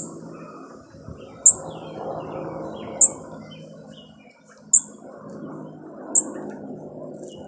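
A small bird chirping: a sharp, high, loud chirp repeated five times at about a second-and-a-half intervals, with fainter short chirps in between.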